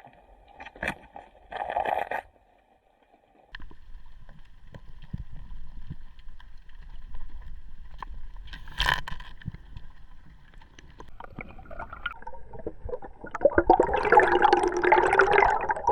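Underwater sounds recorded by a diver's camera: scrapes and knocks over a faint steady hum, a sharp knock about nine seconds in, and a loud rush of bubbling water near the end.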